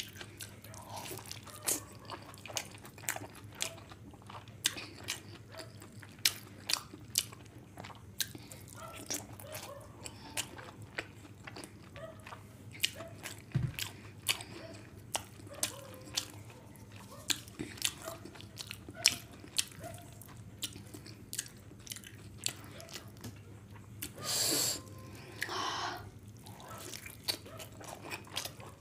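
Close-miked wet chewing and mouth smacks of a person eating fried rice and egg omelette curry by hand, with many sharp clicks. Near the end come two short, louder hissing sounds.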